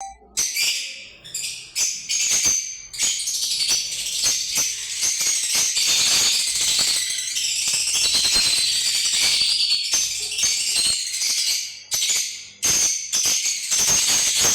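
A flock of lovebirds chattering, a dense run of high-pitched chirps and shrill calls with a few brief lulls.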